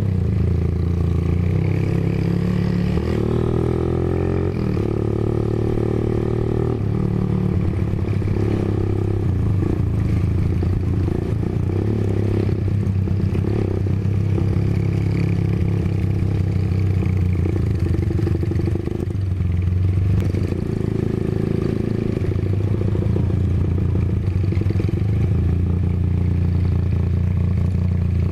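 Honda GL Pro motorcycle's single-cylinder four-stroke engine running under way, heard from the rider's position. Its pitch rises and falls with the throttle about three to six seconds in, then holds fairly steady.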